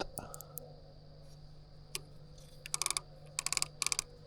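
A fishing reel clicking as a rod is wound in after a lost fish. There are a few single clicks, then three short bursts of rapid clicking in the second half.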